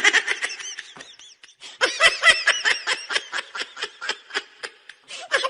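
High-pitched laughing in a quick run of short repeated bursts, pausing briefly about a second and a half in, then picking up again.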